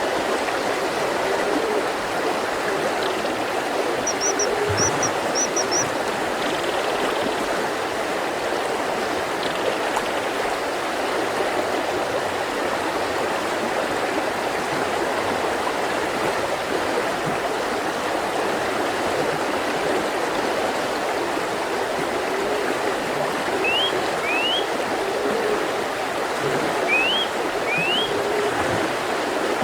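Mountain river flowing steadily over rocks, with brief bird calls above it: a quick run of high chirps about four seconds in and a few short rising notes near the end.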